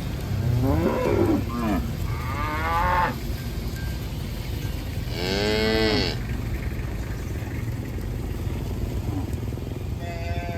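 Cattle mooing: three separate calls, the last about five seconds in the strongest, over a steady low rumble.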